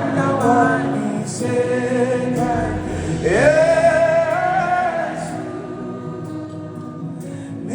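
Gospel-style worship music with singing: a vocal line that swoops up into a long held note about three seconds in, over accompaniment.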